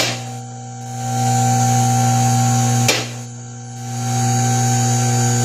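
Electric vehicle lift's pump motor running with a steady, loud mains hum while the lift is raised, with a sharp click at the start and another about three seconds in, each followed by a brief drop in level.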